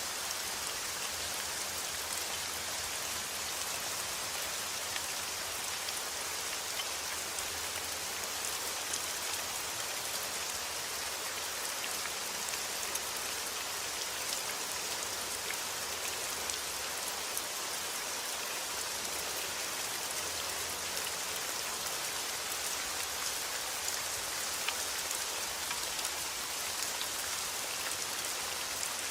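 Steady rain: a dense, even hiss of falling drops, with many sharper individual drop ticks scattered through it.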